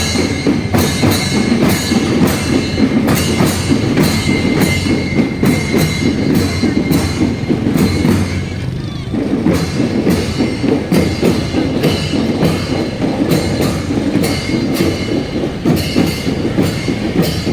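Indonesian marching drum band (drumband) playing a steady, driving beat on its drums, with a brief let-up about nine seconds in.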